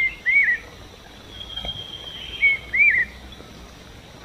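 A bird singing a short whistled phrase, a brief flat note followed by an arching, slurred note, given twice about two and a half seconds apart. A thinner, higher, drawn-out whistle sounds in between.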